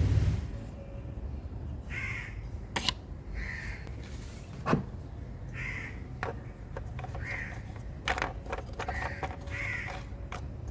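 A bird cawing, about seven short calls spaced a second or two apart, with scattered sharp clicks in between.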